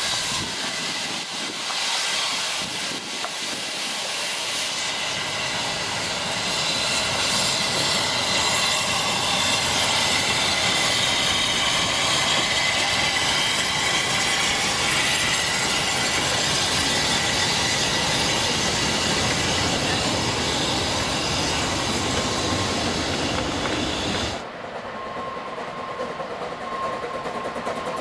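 Narrow-gauge steam train running, wheels clattering on the rails with a hiss of steam, growing louder over the first several seconds. It cuts off abruptly about 24 seconds in to a quieter sound with a faint steady tone.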